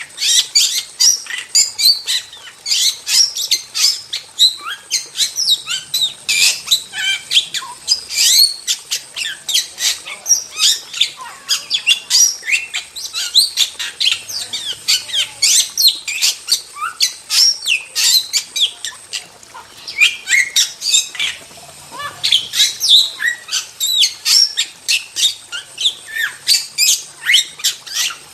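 Starling calling nonstop: a fast, dense chatter of harsh squawks and short whistled notes, with brief lulls about 8 seconds in and again about 20 seconds in.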